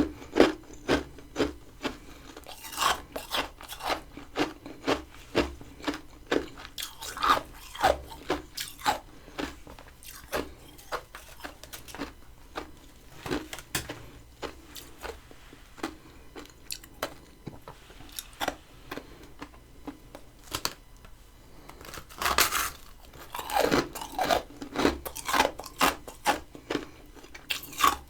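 Close-up chewing of crunchy freezer frost, grown in a mini freezer with a humidifier: rapid crisp crunches, a few a second, with denser bursts of crunching around a quarter of the way in and again near the end.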